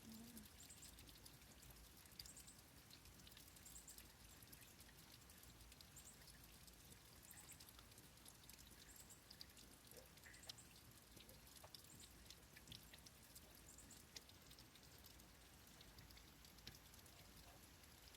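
Faint light rain: a steady soft patter with scattered drops ticking, and faint high chirps every second or two.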